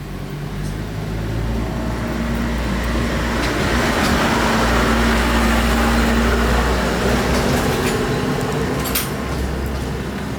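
A motor vehicle's engine and road noise swell to a peak midway, then fade.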